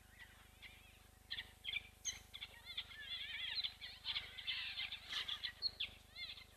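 Wild birds chirping and trilling in a busy run of short, high calls, picking up about a second and a half in.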